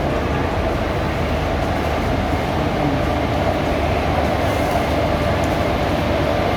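Passenger train hauled by an electric locomotive: a steady, continuous rumble with a faint hum running through it.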